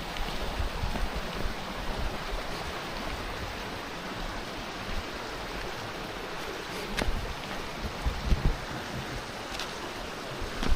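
Steady flow of water from a small waterfall and stream. Low wind rumble on the microphone rises about seven to eight and a half seconds in.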